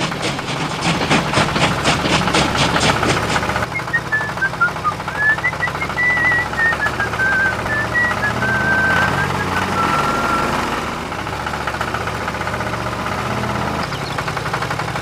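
A small engine running with a steady low hum, and a rapid, even clatter for the first few seconds. A short tune of high single notes plays over it in the middle.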